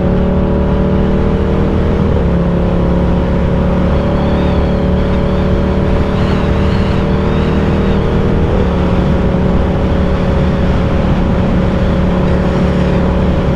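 Ducati Diavel 1260's V-twin engine running at a steady cruising speed while riding, with wind rush; the engine note shifts slightly twice, about two and eight and a half seconds in.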